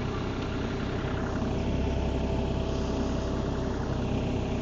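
Engine of a piece of heavy demolition equipment idling steadily.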